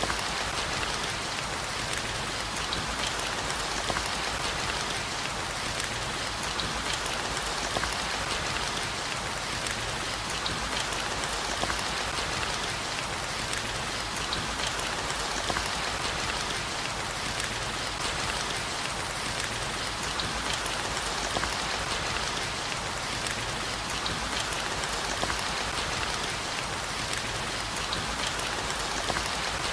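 Steady heavy rain falling on a surface, a dense even hiss with fine scattered drop patter.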